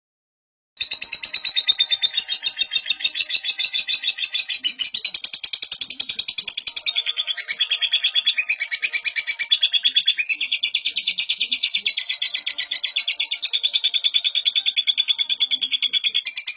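Lovebird singing in a long, unbroken chatter: rapid, high chirps repeated several times a second, starting under a second in.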